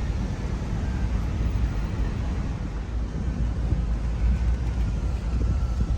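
Steady low rumble of a vehicle driving, road and engine noise with wind noise on the microphone.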